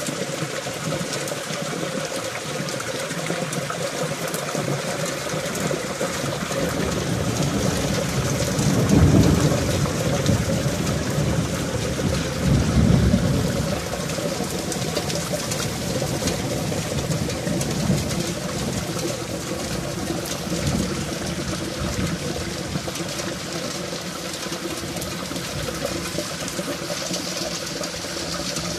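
Heavy rain pouring onto a stone courtyard and clay-tiled roofs, a steady hiss of falling water, with two louder low rumbles about nine and thirteen seconds in.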